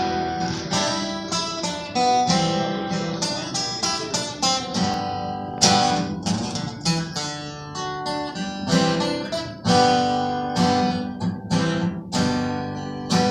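Acoustic guitar intro, individual notes plucked and picked one after another before the singing comes in.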